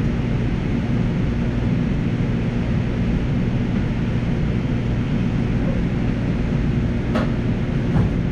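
Steady low rumble of a light-rail train running, heard from inside the car, with two short clicks near the end.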